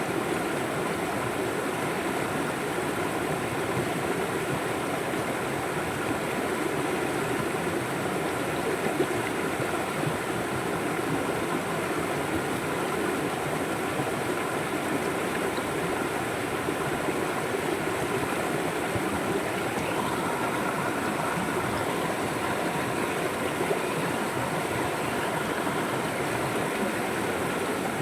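River water flowing, a steady, unbroken wash of sound.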